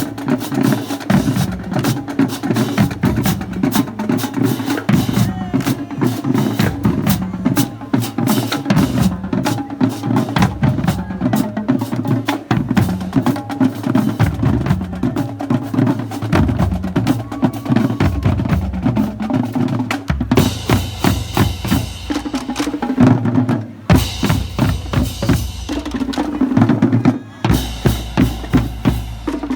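Marching drumline of snare drums, multi-tenors and bass drums playing a fast, dense cadence. About twenty seconds in, the texture changes to a sustained high wash over the drums, broken by two brief drops.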